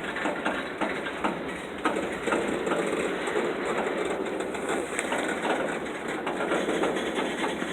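Freight train cars rolling on the rails, with steel wheels giving off a steady run of irregular clicks and knocks.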